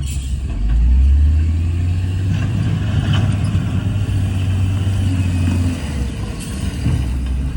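Heavy earthmoving diesel engine running with a deep, steady rumble; it swells about a second in and eases off near the end.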